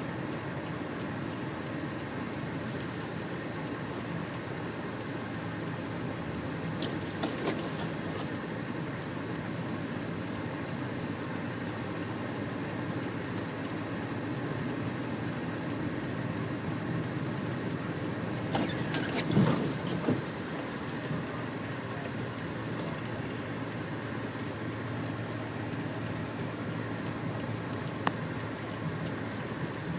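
A car being driven on a snow-covered road: steady engine and road noise, with a few short bumps and knocks, the loudest a rumbling cluster about twenty seconds in and a sharp click near the end.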